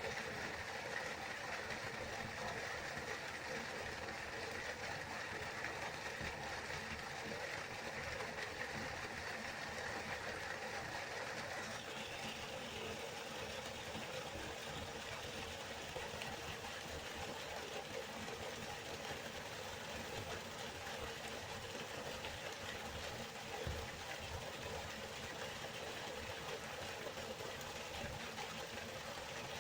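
Waterfall rushing steadily, an even hiss of falling water; its tone brightens slightly about twelve seconds in.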